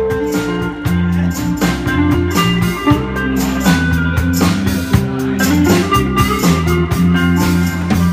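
Live band playing an instrumental intro: electric guitar, bass and drum kit with a steady beat.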